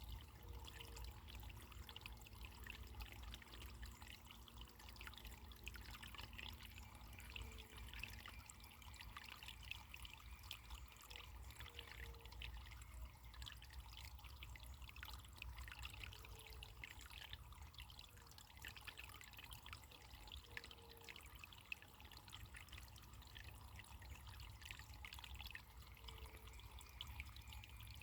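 Faint running water trickling steadily, with a few short low tones every second or two.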